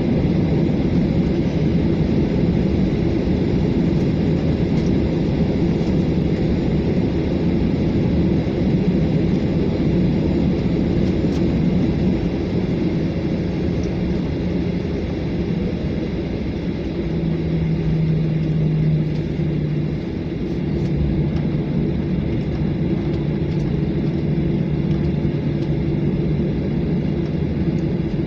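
Jet airliner's engines and airframe rumbling loudly inside the cabin during the takeoff roll, with a steady low hum that shifts in pitch partway through.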